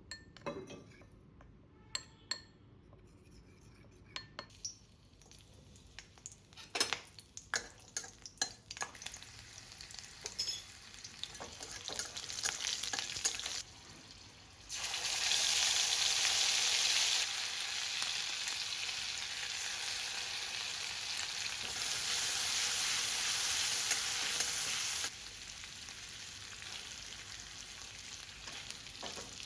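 Food frying in hot oil in a pan while cooking rohu fish curry. A utensil clinks and taps against the pan at first, then the sizzling builds, turns loud and steady about halfway through, and drops back to a quieter sizzle near the end.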